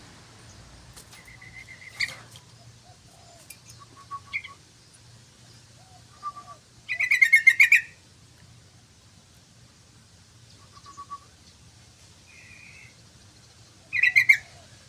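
Yellow-vented bulbul (trucukan) calling: scattered short bubbly notes, then a loud rapid burst of chattering song about seven seconds in and another near the end. A faint steady low hum runs underneath.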